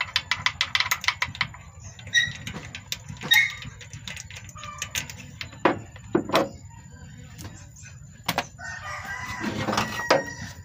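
A rooster crowing near the end, over rapid clicking at the start and a few scattered knocks from hand tools on the engine.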